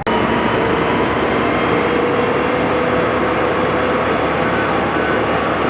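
A large engine running steadily and loudly, with a constant hum over a dense, even rumble.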